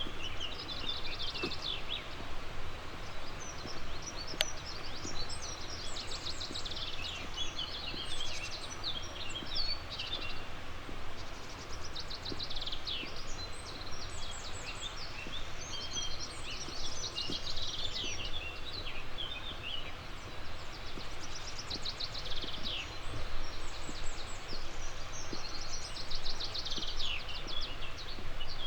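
A songbird singing a short, fast, falling trilled phrase over and over, about every five seconds, over a steady outdoor background rush.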